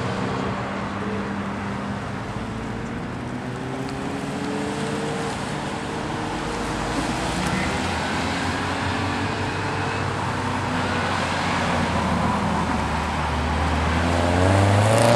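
Car engines running as cars roll slowly through a racetrack pit lane, their engine notes gliding gently up and down. Near the end, one car close by accelerates, its engine note climbing and growing louder.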